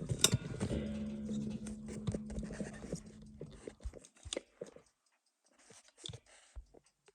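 A man humming one steady low note for a few seconds, then a few faint, small clicks and taps of watchmaking tools and parts on the bench.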